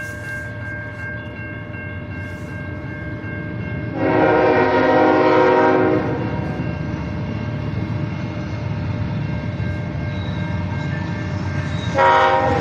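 CN freight train's diesel locomotive horn sounding one blast of about two seconds, with a second blast starting near the end, over the steady rumble of the train.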